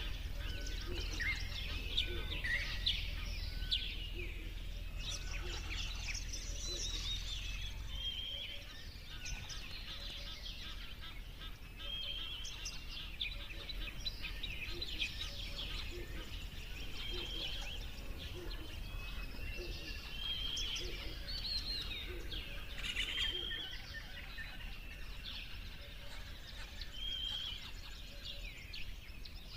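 Several songbirds chirping and singing, their short phrases overlapping with no break, over a low rumble that fades out about eight seconds in.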